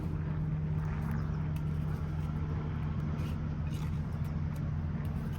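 Steady low mechanical hum of a running motor, with a few faint short scrapes over it.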